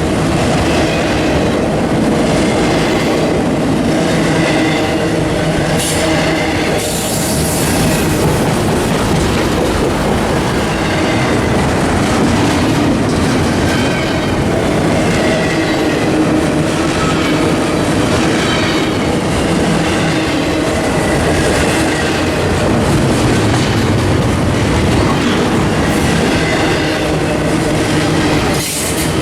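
A train's cars rolling steadily past: steel wheels running over rail joints with a clickety-clack, and faint wheel squeal coming and going.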